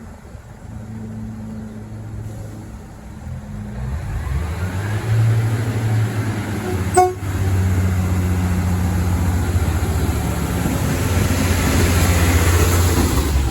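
Diesel locomotive engine running with a deep, steady drone that builds up and grows much louder from a few seconds in, with one sharp short knock about halfway through.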